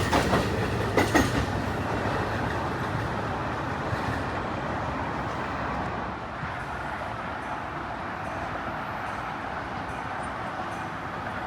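Passenger train rolling past, its wheels clicking over rail joints in the first second or so, then a steady rail rumble that slowly fades as it moves away.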